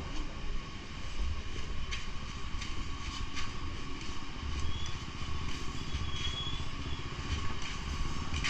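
Steady low motor-vehicle rumble with a few light clicks.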